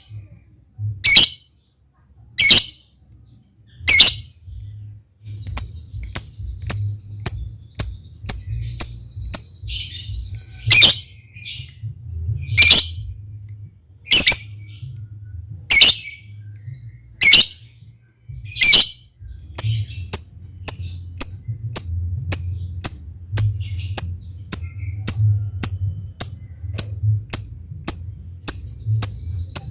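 Lovebird calling: loud, shrill squawks about every second and a half, with quick runs of short, sharp ticking chirps between them, several a second, the call keepers know as 'ngetik'. A faint low hum runs underneath.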